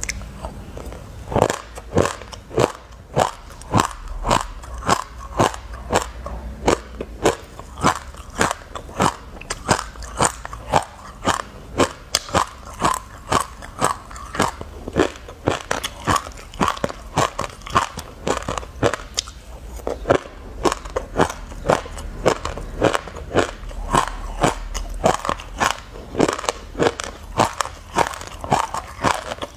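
Chewing a mouthful of black sesame seeds: a steady run of crisp crunches, about two a second.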